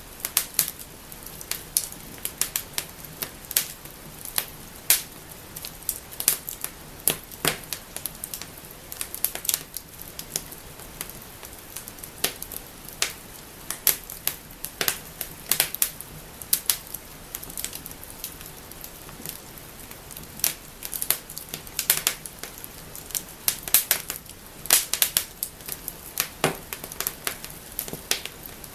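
Wood fire in a fireplace crackling and snapping, with frequent sharp pops at irregular intervals over a faint steady hiss of burning.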